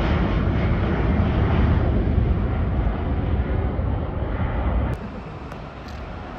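Jet airliner's engines roaring during take-off, a steady deep rumble that slowly fades as the aircraft climbs away, then drops abruptly about five seconds in to a much quieter background.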